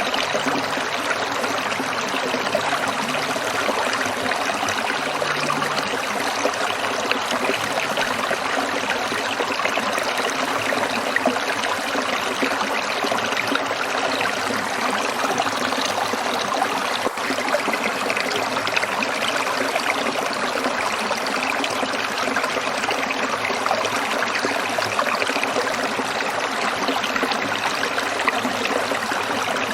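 Stream water trickling and splashing over rocks, a steady rush without pause.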